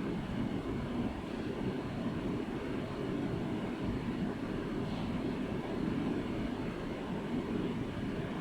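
Rain-and-thunder ambience: a steady low rumble with no distinct claps.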